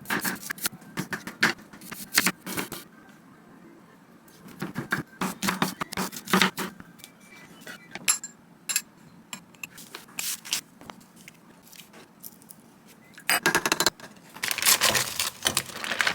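Objects being handled: a run of sharp clicks, knocks and scrapes in irregular clusters, thickening into a dense burst near the end.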